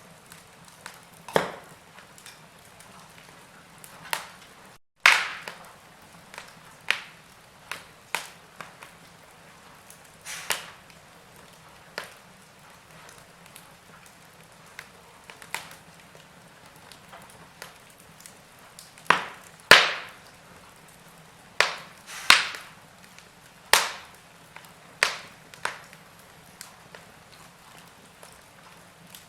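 Wood fire in a fireplace crackling: irregular sharp pops and snaps over a faint steady hiss, coming faster and louder in the second half. The sound cuts out completely for a split second about five seconds in.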